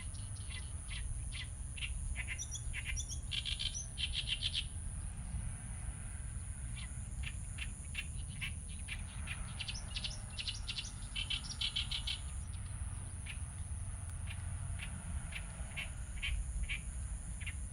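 Outdoor field recording of small birds chirping, with short high calls repeated in quick bouts. Under it runs a steady low rumble and a thin, constant high-pitched tone.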